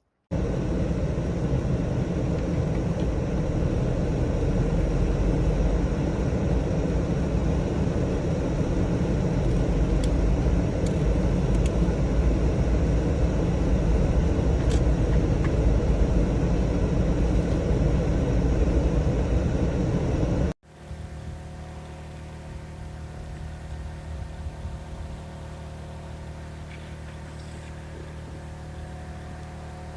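Engine of a snow-clearing machine running steadily under load. About two-thirds of the way through it cuts abruptly to a quieter, steady engine hum.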